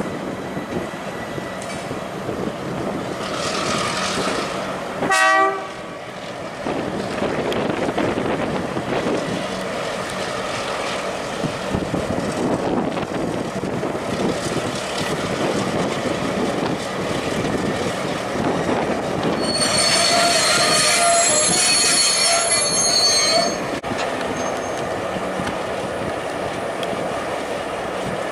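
Freight train headed by Victorian Railways B class diesel locomotive B75, with more locomotives behind it, rolling past with a steady rumble of engines and wagons. A short horn toot sounds about five seconds in. A high-pitched wheel squeal runs for about four seconds near the end and cuts off suddenly.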